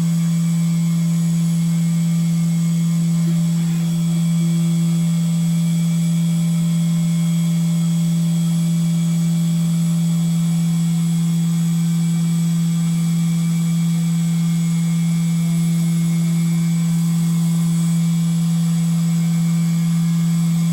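SYIL X7 CNC mill machining an aluminium bracket: a loud, steady hum at one pitch from the running spindle, with a faint hiss of cutting over it, unchanging throughout.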